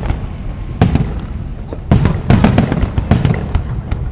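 Aerial fireworks shells bursting in a run of booms and bangs, each with a rumbling echo. They come about a second apart at first, then several in quick succession from about two seconds in.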